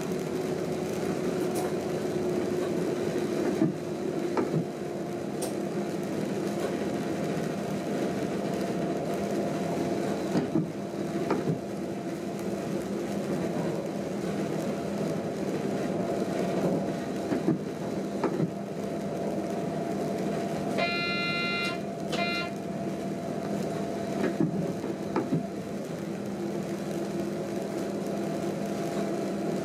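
Train driver's cab while running: a steady drone of the drive with scattered short clicks. About two-thirds through, a short electronic warning tone sounds in the cab, cuts off briefly and sounds once more.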